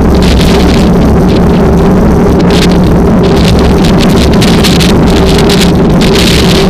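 Strong wind buffeting the microphone in irregular gusts over a steady engine drone.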